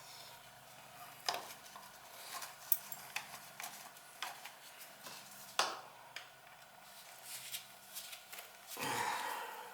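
Scattered small metal clicks and knocks of tools and burner parts being handled during reassembly of an oil burner, with a longer scrape near the end, over a faint steady hum.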